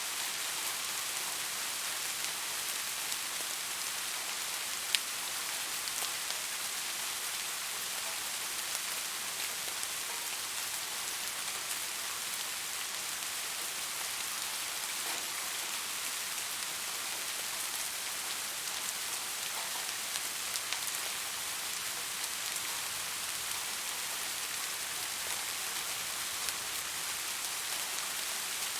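Steady rain falling on a surface, a continuous hiss with scattered drop ticks and one sharper drop about five seconds in.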